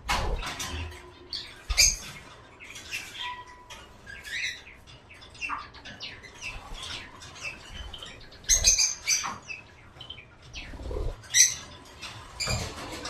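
Small pet birds moving about in a cage: irregular scratching, clicks and knocks on the cage and its fittings, with a few short chirps and flutters of wings.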